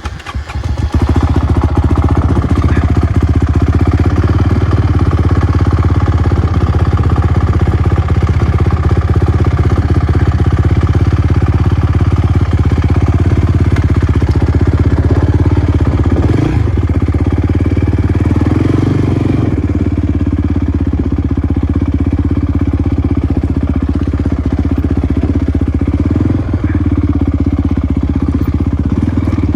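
Motocross bike engine running loud and steady close by, just after starting, with the engine speed holding fairly even.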